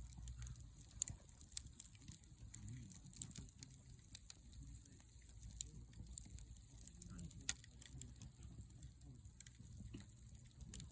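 Wood campfire crackling, with irregular sharp pops scattered throughout over a low steady rumble.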